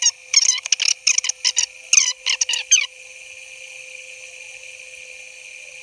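Sped-up playback of a recording: a rapid run of shrill, squeaky chirps, many sliding down in pitch, that sounds like animal calls. After about three seconds it gives way to a steady hiss with a constant hum.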